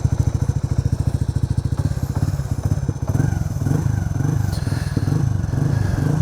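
Honda Super Cub C125's single-cylinder four-stroke engine running just after starting, idling with an even rapid beat, then rising and falling a little in pitch from about halfway.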